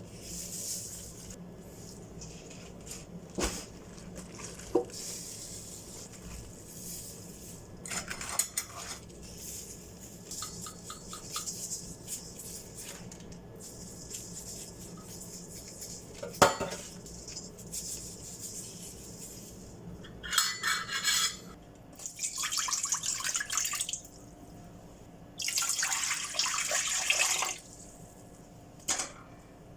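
Kitchen sink work: water running and splashing in a sink, with scattered clinks and knocks of dishes and utensils. The water runs in three louder spells of a second or two near the end.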